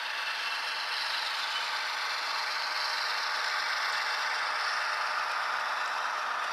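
HO scale model train running along the track: a steady mechanical running noise of small wheels and motors on the rails, with nothing in the bass.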